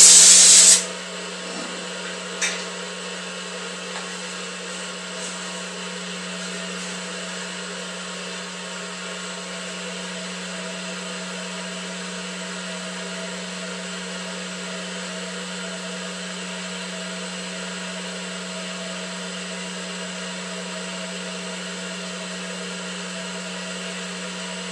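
A loud brazing hiss cuts off under a second in. What follows is the steady hum and whir of a welding machine, its transformer and cooling fan running. There is one sharp click about two and a half seconds in.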